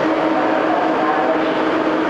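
Train noise: a steady rumble and hiss with a constant hum and a few faint wavering whines.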